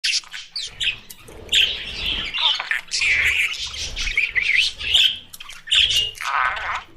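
Budgerigars chirping and warbling continuously, a dense run of quick chirps, squawks and chattering glides.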